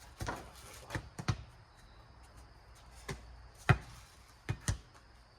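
Rubber four square ball bouncing on pavement and being struck by hand: about seven sharp smacks spread unevenly, two of them in quick pairs.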